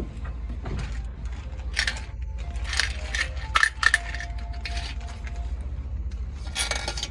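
Metal parts and tools clinking and clattering, about seven sharp strikes with brief ringing, over a steady low hum.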